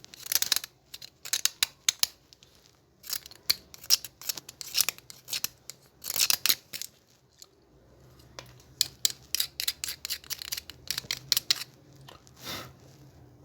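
Rapid, irregular runs of short, sharp snipping or scraping strokes with brief pauses: a hand tool cutting or trimming at the hair dryer's parts during a repair. A faint low hum comes in about halfway through.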